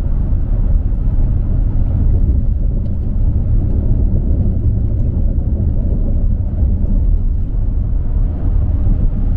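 Car driving at highway speed, heard from inside the cabin: a steady, low road rumble.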